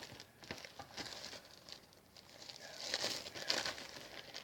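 Packaging and paper being handled: crinkling and rustling with a few light clicks, swelling to a louder rustle about three seconds in.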